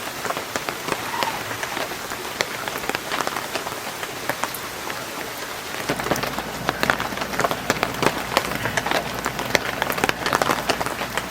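Heavy rain falling hard on surfaces: a dense hiss peppered with many sharp individual drop strikes. A steady low rumble joins about six seconds in.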